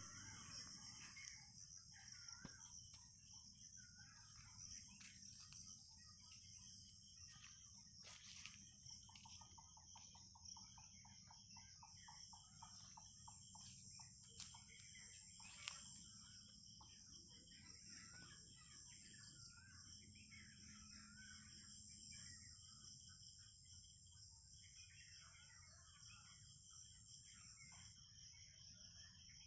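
Faint outdoor ambience of birds calling, with many short wavering calls and a quick pulsed trill partway through, over a steady high-pitched insect drone.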